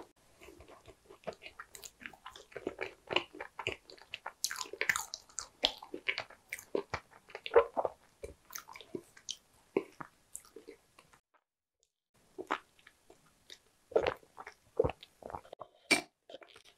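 Close-miked chewing of a crunchy tart, with irregular wet clicks and crisp crunches of the pastry crust. The sounds stop for about a second two-thirds of the way through, then go on, ending with a short sip through a straw from a plastic cup.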